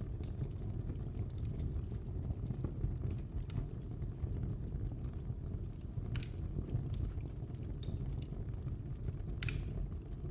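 Wood fire burning in a fireplace: a steady low rumble of flames with scattered crackles and pops, the sharpest about six and nine and a half seconds in.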